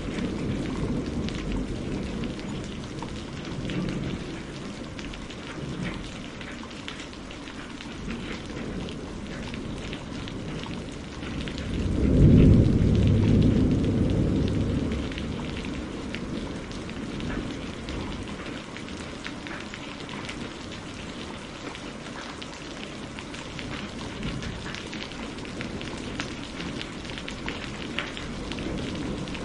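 Steady rain. A low rumble of thunder swells about twelve seconds in and dies away over a few seconds.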